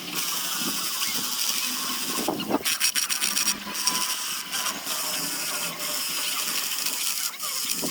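Sandpaper working a zelkova wood basket: a steady abrasive hiss with a faint shifting whine, broken by brief pauses about two and a half and three and a half seconds in.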